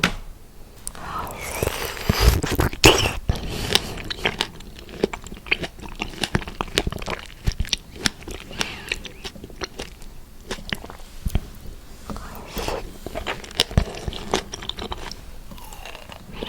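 A person biting into and chewing fresh strawberries close to the microphone: many sharp, irregular little wet clicks and squelches, with the loudest bites about two to three seconds in.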